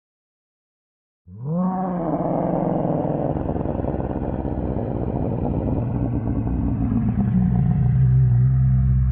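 Designed creature roar for the prehistoric sperm whale Livyatan. It starts about a second in with a quick downward bend in pitch, runs on as a long rough roar, and near the end settles into a low, steady, droning tone that grows louder.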